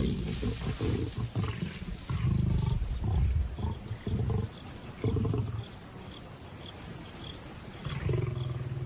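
Lions growling and snarling in a fight over a carcass, as a young male lion drives lionesses off the kill: a series of short, deep growls, with a lull before a last burst near the end.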